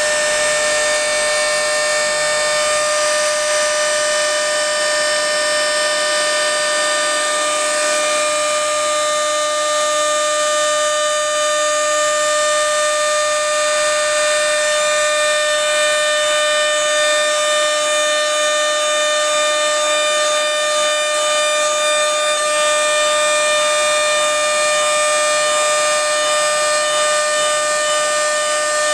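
CNC machine spindle running with a steady, loud whine of several held tones while cutting acrylic sheet.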